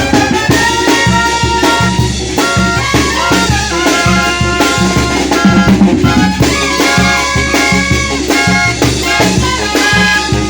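Mexican banda playing an instrumental: brass and reed horns carry a melody of held notes over drums and a steadily pulsing low bass line.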